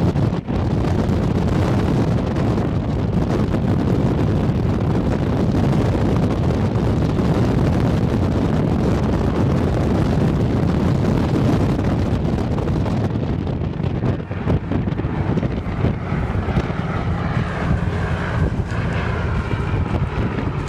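Heavy wind buffeting the microphone over the steady noise of an aircraft in flight. Faint wavering tones come in near the end.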